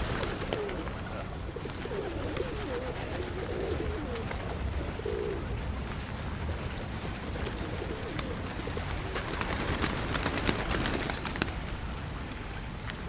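Pigeons cooing, low wavering coos mostly in the first half, over a steady low background rumble with a few scattered clicks.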